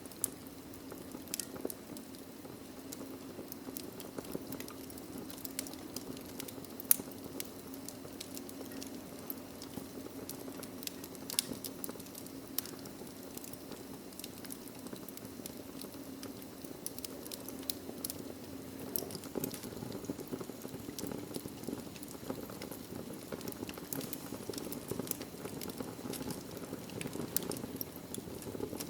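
Wood logs burning in a fireplace: a steady low hiss with frequent sharp crackles and pops, the loudest about seven seconds in.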